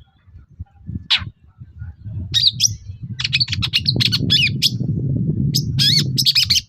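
Long-tailed shrike (cendet) calling: one sweeping note about a second in, then from about two seconds in a fast run of sharp, harsh chattering and squawking notes, over a low rumble. It all cuts off suddenly at the end.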